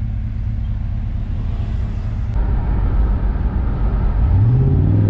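1993 Chevrolet Caprice wagon's 305 TBI small-block V8 running under heavy throttle. About two and a half seconds in it gets louder, and near the end the revs climb quickly and hold high as the transmission downshifts.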